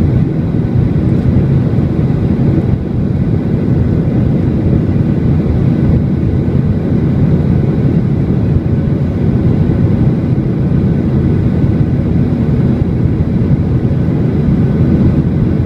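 Airliner climbing after take-off: a loud, steady low rumble of jet engines and rushing air, with a few faint steady whining tones above it.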